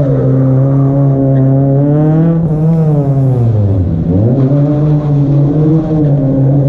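Proton Wira's 1.6-litre 4G92P four-cylinder engine revving hard on a gymkhana run. The revs hold steady, rise and fall, drop sharply about four seconds in, then climb again.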